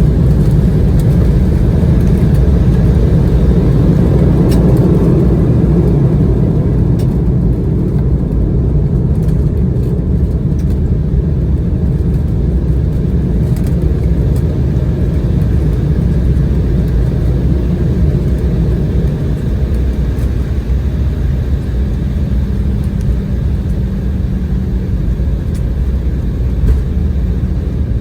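Cabin noise of an Embraer E190 jet on the ground just after landing: a steady low rumble of the engines and the wheels rolling on the runway or taxiway, easing gradually as the aircraft slows.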